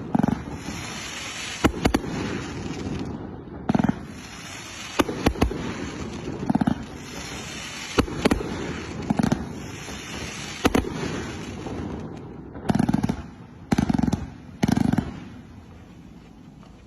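A 268-shot 1.2-inch 'Air Ballet' fan cake firework firing: sharp reports about every second or so over a steady hissing crackle, with three heavy volleys a little before the end, after which the sound dies away.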